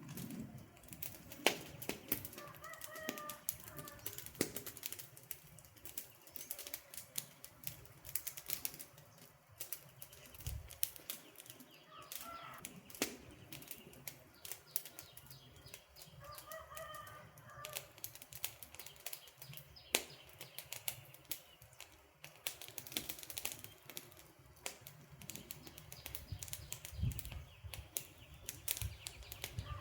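Wood campfire crackling steadily, with irregular pops and snaps of burning logs. A few brief pitched calls rise above the crackle three times.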